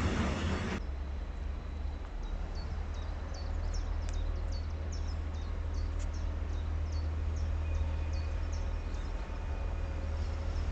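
A small bird calling over and over with short high chirps, about two a second, over a steady low rumble.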